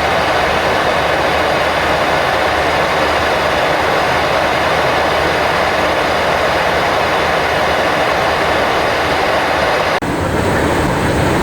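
Boeing 737NG cockpit noise in cruise: a loud, steady rush of airflow with engine hum. About ten seconds in it changes abruptly to a deeper rush with a faint thin high whine.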